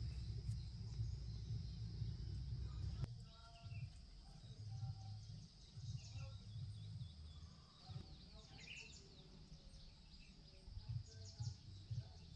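Outdoor ambience: birds chirping with short, quick falling calls over a steady high insect drone, with a low rumble that drops away about three seconds in.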